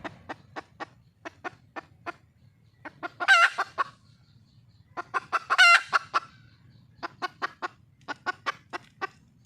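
Junglefowl hen calling: an even series of short clucks, about three a second, twice broken by a louder, longer call with a wavering pitch, about three and five and a half seconds in. The title takes it for a wild hen calling for a male.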